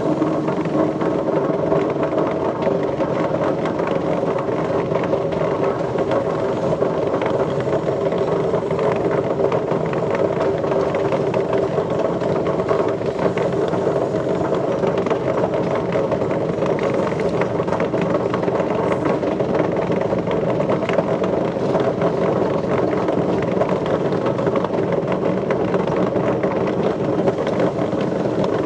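Machinery running steadily, a constant mechanical hum with no change throughout.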